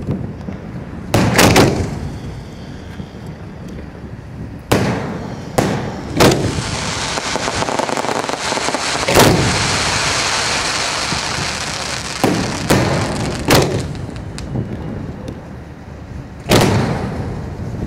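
Aerial fireworks shells firing and bursting at close range: about eight sharp, loud bangs at irregular spacing. A dense hiss runs for several seconds in the middle of the series.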